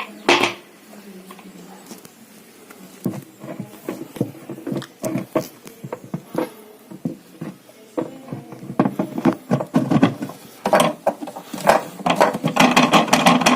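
Irregular clicking and knocking of a washing machine pulley being fitted onto the drum's shaft nut, with scattered taps in the middle and a dense run of clatter in the last few seconds.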